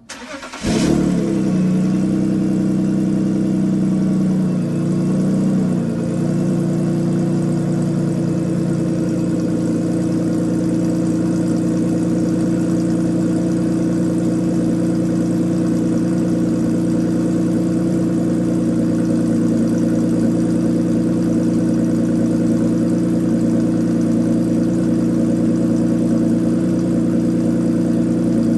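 BMW E39 528i's ECU-tuned straight-six cold-starting: a brief crank, then it catches within the first second and runs on at a raised cold idle. The idle speed shifts and dips around four to six seconds in, then holds steady.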